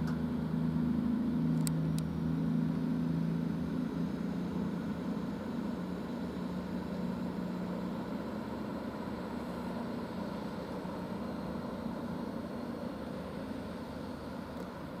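Class 221 Super Voyager diesel multiple unit pulling out of the station. Its underfloor diesel engines run with a steady low drone that slowly fades as the train moves away.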